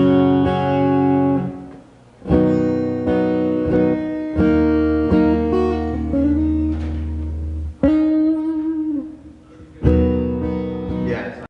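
Acoustic guitar chords strummed one at a time, each left to ring and fade before the next, with short pauses in between.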